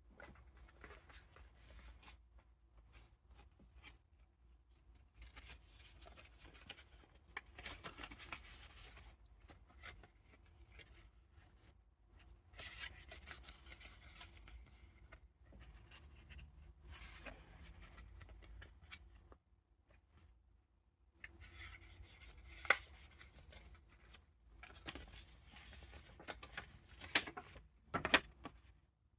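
Pages of a handmade paper junk journal being turned and handled: paper rustling and crinkling in irregular spells, with a few sharper clicks in the last third.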